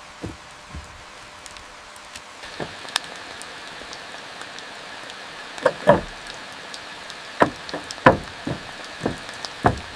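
Steady rain with about a dozen irregular sharp knocks and taps, loudest around six and eight seconds in.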